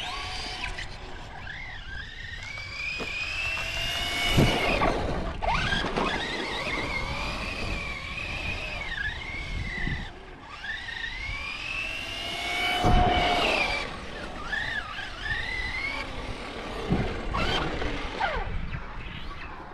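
Electric RC trucks driving on dirt, their motors whining up and down in pitch as the throttle is worked, with a few sharp knocks from landings or impacts, the loudest about four and a half and thirteen seconds in.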